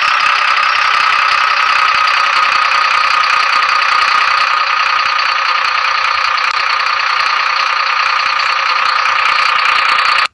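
Tractor engine running steadily, heard as a loud, unchanging noise with little bass, cutting off suddenly at the end.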